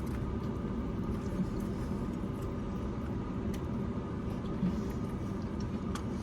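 Steady low hum of a car idling, heard from inside the cabin, with a few faint clicks over it.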